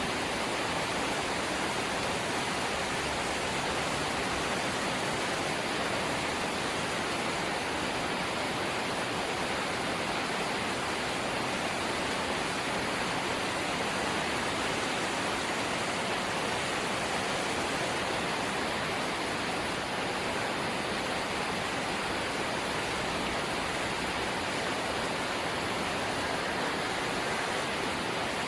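Steady light rain: an even, unbroken hiss with no separate drops, gusts or other events standing out.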